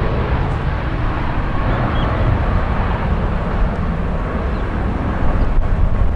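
Airbus A330 twin jet engines running at takeoff power: a steady, loud rushing roar with a faint steady fan tone. Wind buffets the microphone, adding a rumble that comes and goes.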